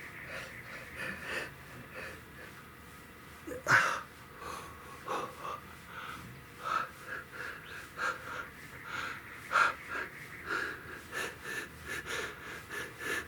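A man breathing hard from exertion while pedalling a bike up a steep climb near the end of a ride, about one breath a second, with a louder breath about four seconds in.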